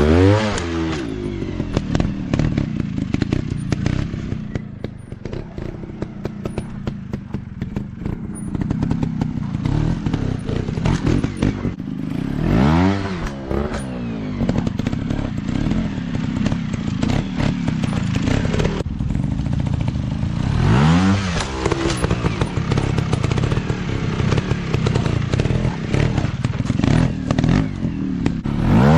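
Dirt bike engines running steadily, with the engine pitch sweeping up sharply four times, about every eight seconds, as the bikes are revved.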